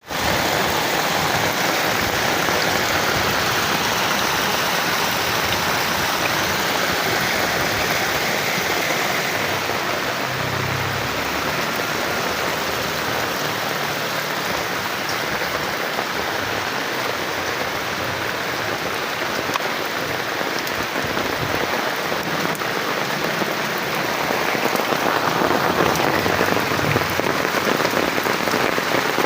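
Steady rain pouring down, a dense, even hiss of drops.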